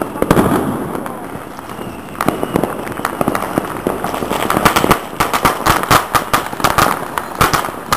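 Fireworks and firecrackers going off all around: a steady crackle of many sharp bangs, which come thick and fast in a rapid rattle from about five seconds in.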